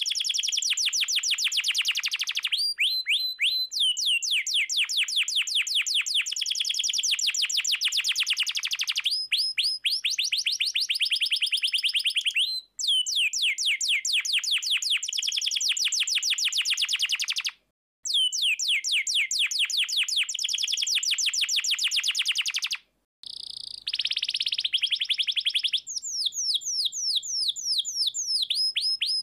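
Canary singing long, fast rolling trills of rapidly repeated down-slurred notes, in phrases broken by a few abrupt short gaps. About three-quarters of the way through comes a buzzier, harsher passage before the rolling trills resume.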